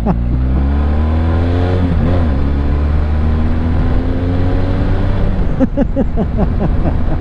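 Motorcycle engine pulling up through the gears: its pitch rises for about two seconds, drops at a gear change, then climbs more slowly. Short quick rev sweeps come near the start and again about six seconds in.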